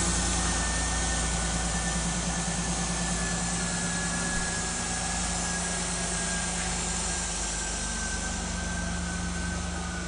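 A 2002 Ford Escape's 3.0-litre V6 engine idling steadily, with a thin whine that slowly falls in pitch.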